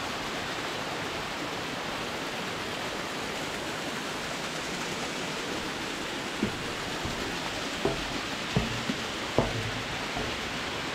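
Steady rushing of a waterfall. From about six seconds in, a few short dull thumps.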